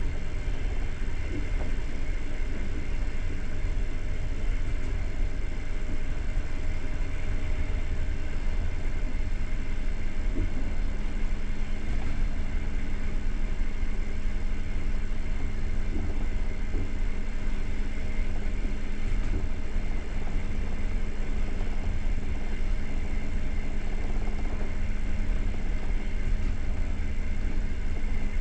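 Passenger train coach running along the track, a steady low rumble of wheels on rails heard from inside the carriage; a steady hum joins about ten seconds in.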